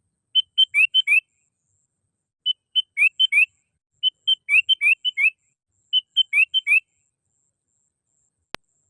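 Sooty-headed bulbul (kutilang) in full song: four quick phrases of short chirps and rising whistled notes, a played-back lure call. A faint click near the end.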